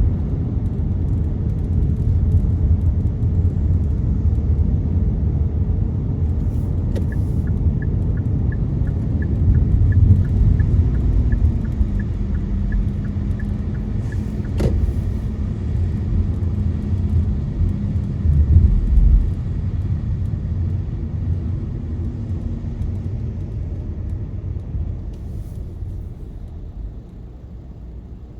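Car driving on a rainy road, heard from inside: a steady low rumble of tyres and engine. A light, regular ticking, about two or three a second, runs for several seconds in the middle, and the rumble grows quieter near the end.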